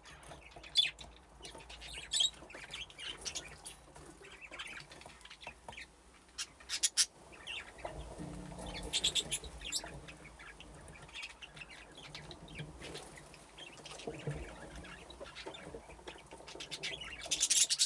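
A flock of budgerigars chirping and chattering, with short, sharp high calls scattered throughout and a louder burst of calls near the end.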